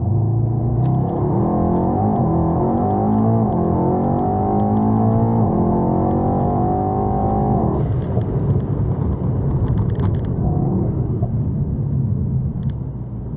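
Tuned Mercedes-AMG E63 S twin-turbo V8 at full throttle from a standing launch, its pitch climbing and dropping back through several quick upshifts. About eight seconds in the throttle is lifted and the engine falls to a lower rumble as the car coasts.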